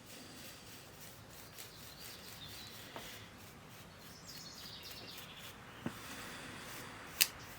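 Quiet bench work on a boombox cassette deck: a few light clicks and taps, the loudest near the end, over a faint hiss, with faint bird chirps in the background about halfway through.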